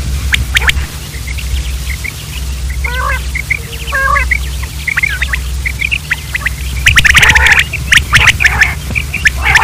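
Common quails calling: scattered short chirps and gliding notes, then harsh, rapid clicking calls that crowd together about seven seconds in, over a steady low hum.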